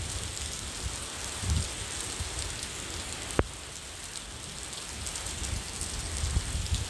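Steady rain falling, with a few short low rumbles and one sharp drip-like tick about three and a half seconds in.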